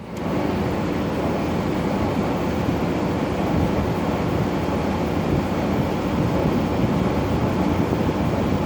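LG 12,000 BTU air conditioner running: a steady rush of air from the fan over a low compressor hum.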